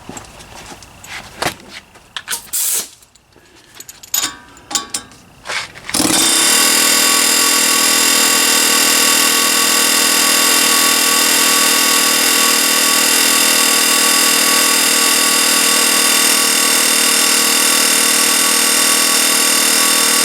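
A few scattered knocks, then a power tool starts up about six seconds in and runs loud and steady without a break.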